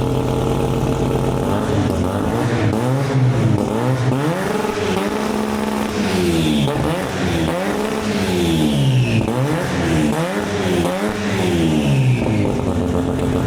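Car engine idling, then revved in repeated blips, its pitch rising and falling about once a second. A faint falling whistle rides over some of the blips.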